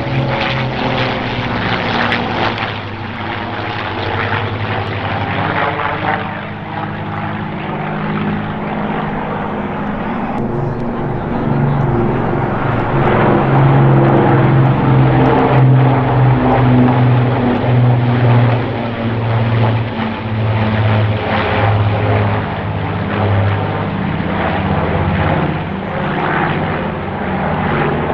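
Propeller aircraft flying overhead in a flypast, a steady droning engine note that holds through the whole stretch, its pitch sliding down near the start as it passes.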